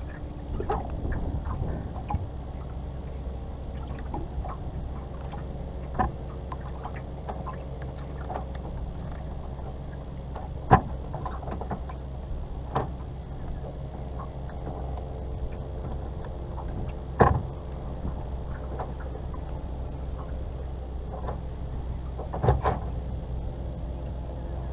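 Knocks and clunks on a small fishing boat over a steady low rumble, with three louder sharp knocks, the last a quick double.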